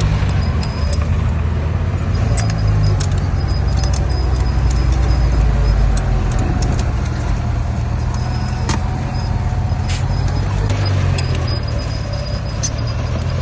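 Heavy diesel engine of an earthmoving machine running with a low, steady rumble, with scattered metallic clinks and rattles over it.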